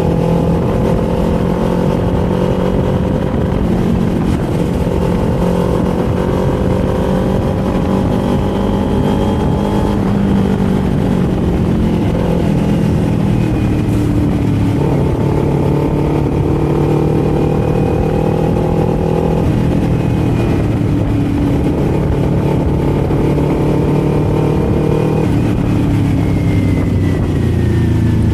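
Kawasaki Z400's parallel-twin engine and exhaust under way. The engine note climbs steadily several times and drops back between the climbs, as the bike accelerates and eases off.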